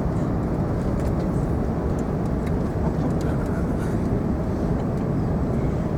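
Steady low rumble of cabin noise inside a British Airways Airbus A380, with a few faint light ticks over it.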